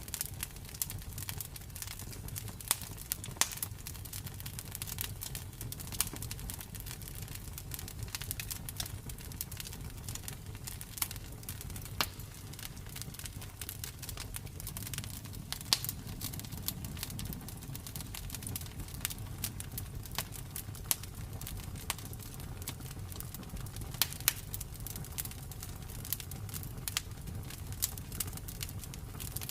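Campfire crackling, with sharp pops at irregular intervals, a few much louder than the rest, over a steady low rumble.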